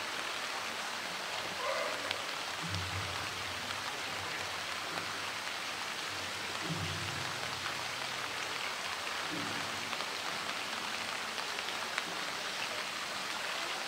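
Steady rain falling, an even hiss, with three faint low sounds a few seconds apart.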